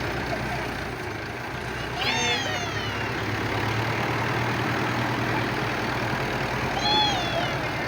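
Diesel tractor engines running steadily under load as two tractors pull against each other in a tug-of-war. High voice shouts rise over the engines about two seconds in and again near the end.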